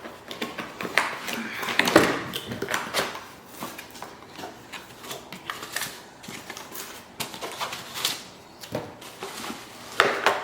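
A product box being opened and its packaging handled by hand: irregular rustling, scraping and sharp clicks, the sharpest about two seconds in and again near the end.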